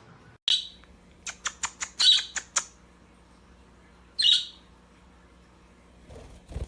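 Pet birds calling: a loud high squawk, then a quick run of about seven short chirps, then another squawk. A low bump comes near the end.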